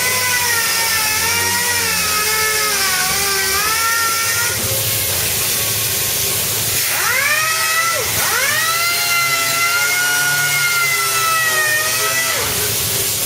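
Small electric power tool motor whining, its pitch wavering as the load on it changes; it winds down and quickly back up about eight seconds in, then drops again near the end.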